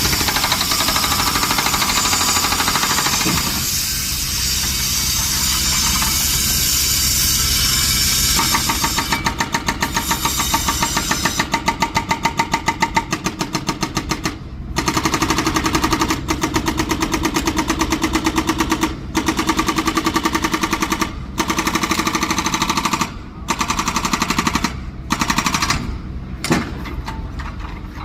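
Excavator running steadily with a hiss. After about eight seconds a rapid, even hammering sets in, coming in bursts of a second or two with short breaks between them, more often towards the end.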